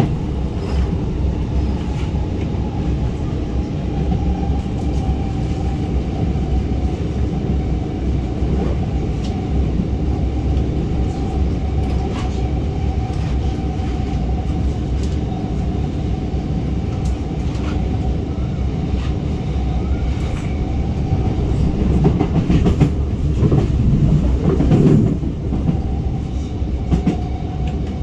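R151 metro train running along the track, heard from inside the car: a steady rumble of wheels on rail with a constant whine and scattered clicks. It grows louder for a few seconds near the end.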